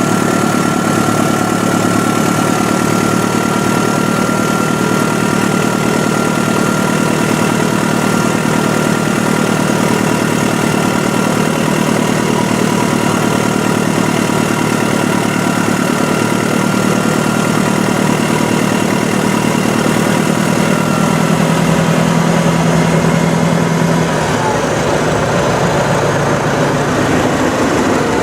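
Heavy diesel engine of earthmoving equipment running steadily under work, with a steady whine above the engine note. The engine note shifts about three quarters of the way through.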